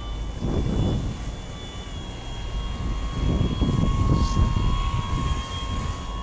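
Electric outrunner motor and propeller of an RC model Cessna 185 whining at a steady pitch in flight, with wind gusting heavily on the microphone.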